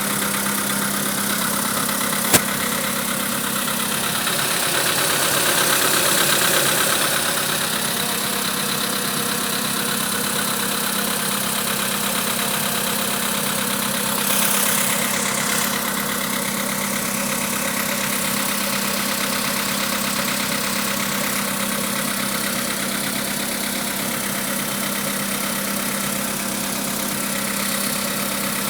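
Volkswagen Polo Sedan engine idling steadily with a knock, the knock the owner has found 1000 km after the piston group was replaced. A single sharp click about two seconds in.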